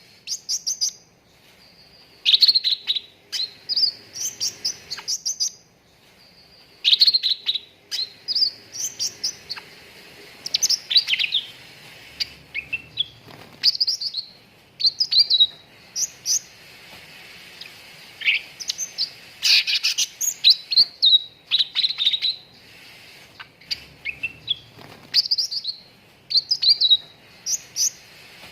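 Cucak ranting songbird singing: quick runs of sharp, rising and falling chirps and whistles in short phrases, with brief pauses between the runs. This is lure and tutor song for getting caged birds to sing.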